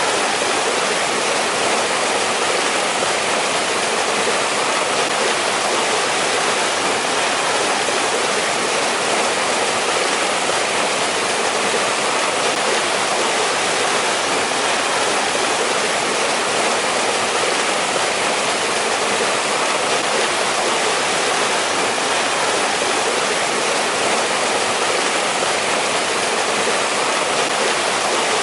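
Water from a mountain stream rushing and splashing over rocks, a steady rush with no change in level.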